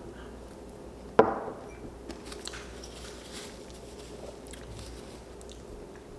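A person chewing food close to the microphone, with one sharp click about a second in.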